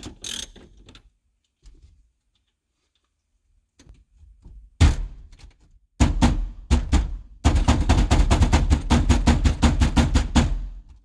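A rapid, even run of loud metallic knocks, about seven a second for some three seconds, from a tool working the steering-wheel centre nut with a 21 mm socket. A single sharp knock comes about five seconds in and a few more just after six seconds. It is quiet before that.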